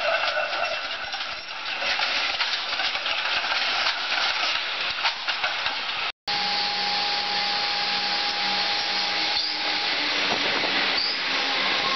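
Street traffic noise as a B2-class tram runs past. About halfway through, the sound cuts to a Comeng electric suburban train at a station platform: a steady whine over hissing, with a lower hum, the whine fading near the end.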